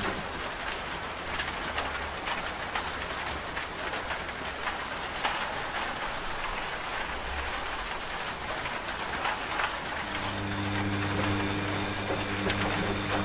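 Steady rain falling on a surface. A washing machine's steady low motor hum drops out at the start and comes back about ten seconds in.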